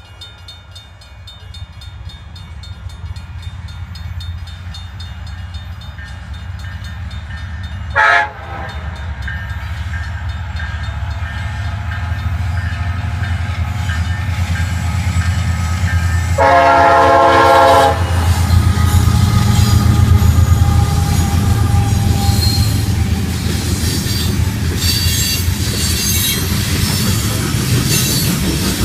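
Herzog ballast train approaching: locomotive engines rumbling, louder as it nears. The horn sounds a short blast about eight seconds in and a longer blast about halfway through, and high wheel squeals come in near the end.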